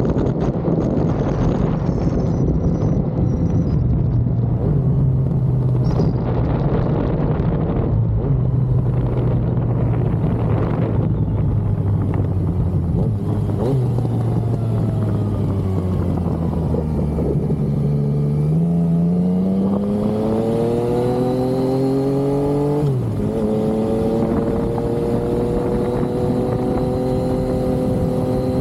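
Yamaha XSR900's three-cylinder engine under way: running at low revs with small steps in pitch, then revving up through a gear, dropping sharply at an upshift about two-thirds of the way in, and climbing again in the next gear.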